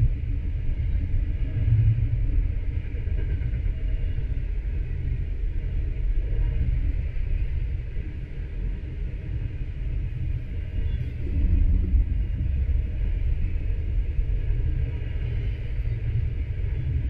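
Double-stack intermodal freight train rolling past: a steady low rumble of steel wheels on the rails, with a fainter hiss of rolling noise above it.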